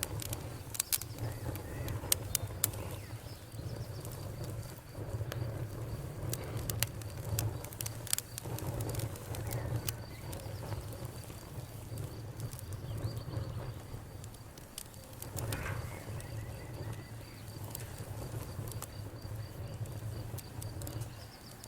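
Wood fire burning in a fireplace: irregular crackles and sharp pops over a low, steady rumble of the flames, with a few louder pops in the first three seconds and around eight seconds in.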